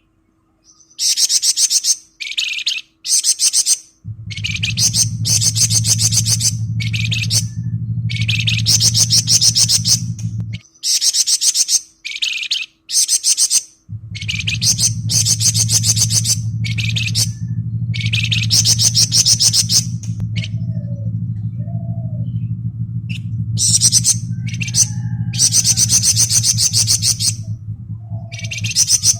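Flamboyan bird singing its fast 'ngebren' song: a string of loud, high, dense rattling trills about a second each with short gaps. A steady low hum runs underneath and drops out for a few seconds before the first third is over.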